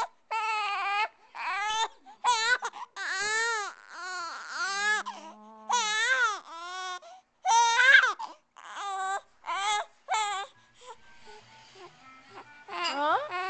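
Baby crying in a string of short, high-pitched wails, each rising and falling in pitch, easing to quieter whimpers about eleven seconds in before louder cries start again near the end.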